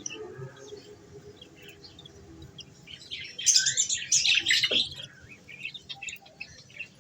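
Budgies chirping: faint at first, then a loud burst of rapid, high chirps about three seconds in that lasts about two seconds, followed by scattered quieter chirps.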